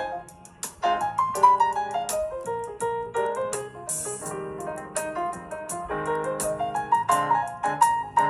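Jazz piano music, notes moving in quick runs, with irregular sharp ticks sprinkled over it.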